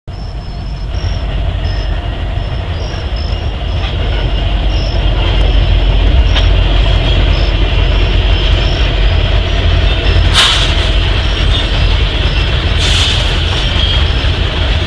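Approaching Norfolk Southern freight train: a steady low rumble of diesel locomotives and rolling wheels that grows louder over the first several seconds. Two brief sharp high-pitched noises come in the last third.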